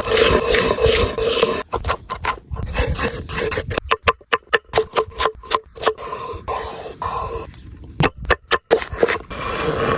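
Cooking sounds in quick cuts: a run of short scrapes and knocks with abrupt breaks between them.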